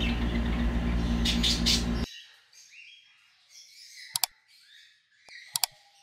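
Small cage birds chirping. For the first two seconds a loud steady hiss with a low hum covers them, then it cuts off suddenly, leaving the chirps faint, with two sharp clicks about four and five and a half seconds in.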